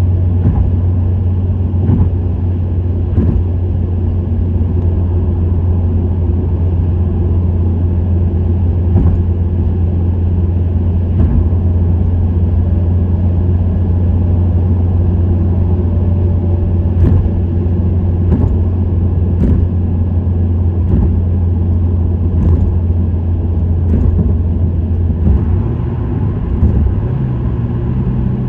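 Subaru WRX STI's turbocharged EJ20 flat-four with an STI Performance muffler cruising at steady revs, giving a deep, even exhaust drone. Occasional short knocks are heard over it, and the drone shifts slightly in pitch near the end.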